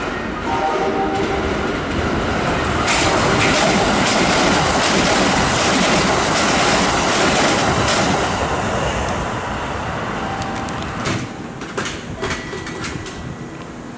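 Red Kintetsu limited express electric train running alongside the platform, its noise building up, loudest for several seconds with wheels clacking over rail joints, then fading away.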